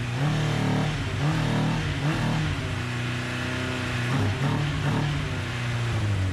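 1988 Honda CBR1000F Hurricane's inline-four engine running just after its first start in about seven years, on freshly refitted carburetors, with the revs rising and falling several times as the throttle is worked. It runs rough, which the owner calls running like crap.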